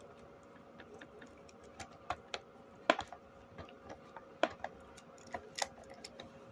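Scattered light clicks and taps at irregular intervals, the sharpest about 3 and 4.5 seconds in, over a faint steady hum.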